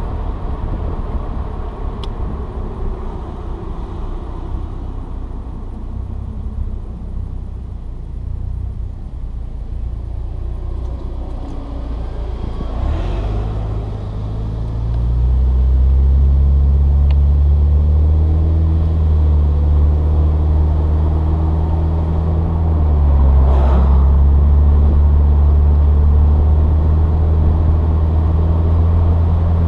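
Saturn Sky Red Line's turbocharged 2.0-litre four-cylinder engine running under way, heard from inside the car with road noise. About halfway through, the engine note rises as the car accelerates, then holds louder and steady.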